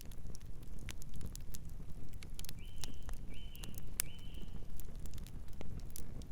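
Campfire crackling, with frequent sharp pops and snaps over a low steady rumble. Around the middle, a bird gives three short high calls in quick succession.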